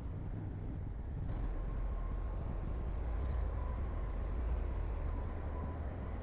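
Heavy diesel earthmoving machinery working: a steady, deep engine rumble that grows a little louder about a second in, when a faint high whine joins it.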